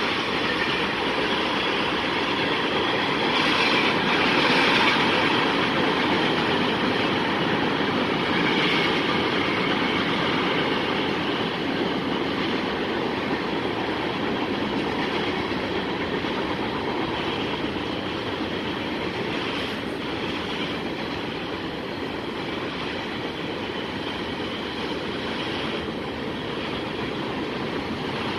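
Freight train cars (tank cars, then a boxcar) rolling past on the track: a steady rumble of steel wheels on rail, loudest about four seconds in and easing slightly toward the end.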